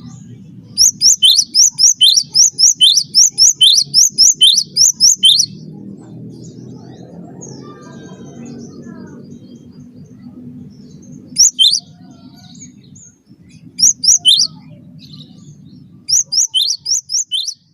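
Cinereous tit (gelatik batu) singing fast runs of high chirps that sweep downward, about four to five a second. A long run comes first, then short bursts about two-thirds in and again near the end, all over a low steady hum.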